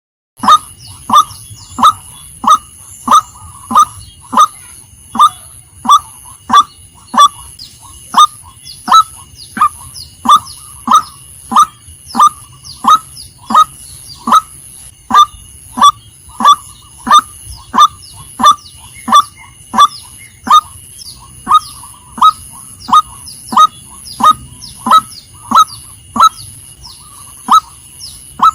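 Female white-breasted waterhen calling: a steady series of short, slightly falling notes, about three every two seconds, over a faint steady high whine.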